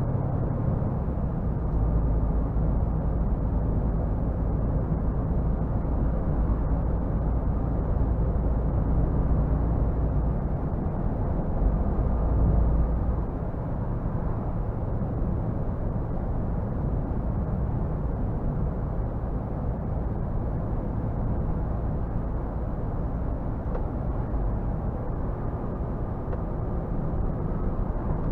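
Scania R450 truck's six-cylinder diesel engine running as the truck drives, a steady low drone over road noise. The low rumble is strongest in the first half and eases off a little about thirteen seconds in.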